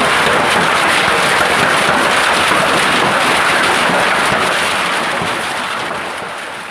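Heavy rain pouring: a dense, steady hiss full of fine crackling impacts, fading out near the end.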